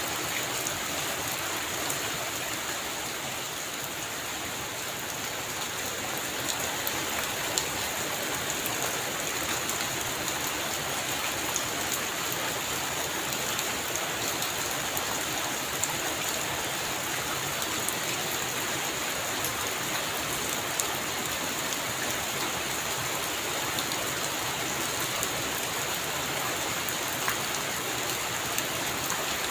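Heavy rain falling steadily: a dense, even hiss with scattered louder drops ticking through it.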